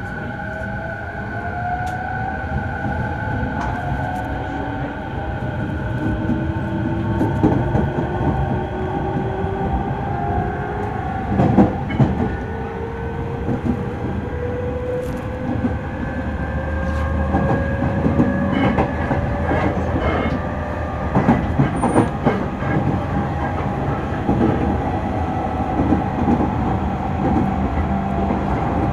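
JR 209 series electric train running, its traction motor whine rising slowly in pitch as it picks up speed, with the wheels clattering over rail joints now and then.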